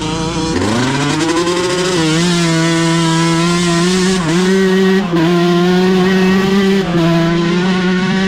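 Dirt bike engine revving up hard and then held at high revs, its pitch dipping briefly several times before climbing straight back.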